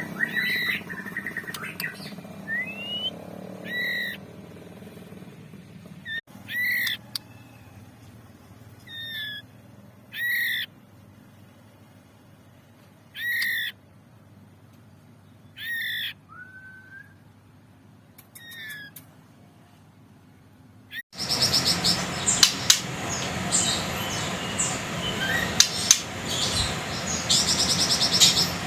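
Juvenile white-rumped shama (murai batu) calling: short, sharp notes with quick pitch sweeps, one every two or three seconds. About two-thirds of the way through the sound cuts abruptly to a louder, dense run of rapid chirps and clicks.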